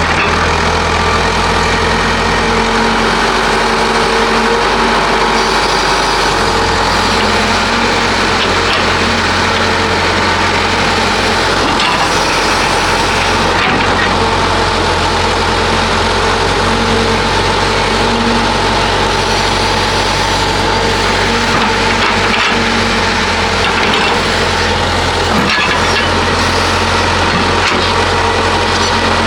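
Heavy diesel earthmoving machinery running steadily, its engine note shifting in pitch and level, with crunching and scraping and a few knocks from the work.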